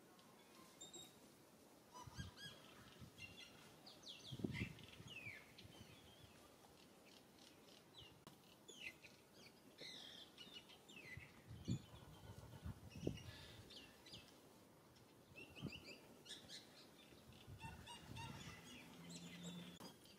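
Faint birds chirping, short high falling calls scattered throughout, with a few soft low thumps and a brief low call near the end.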